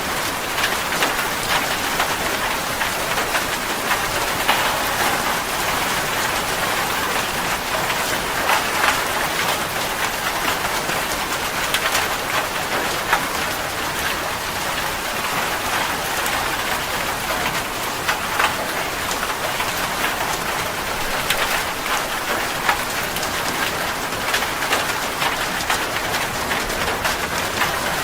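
Steady rain falling on a surface, a constant hiss with many sharper individual drop hits scattered through it.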